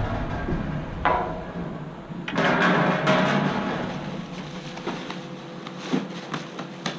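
Rummaging through trash: a sharp knock about a second in, then a stretch of rustling and a few scattered clicks and clunks, over a faint steady hum.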